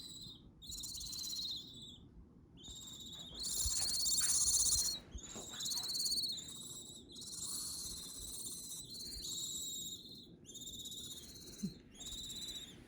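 Young barn owl chicks, about three weeks old, giving harsh, hissing calls one after another with short gaps, loudest about four seconds in.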